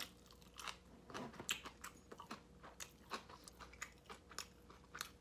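Faint close-up chewing of a mouthful of rice and green onion kimchi: irregular soft wet clicks and smacks, a few a second.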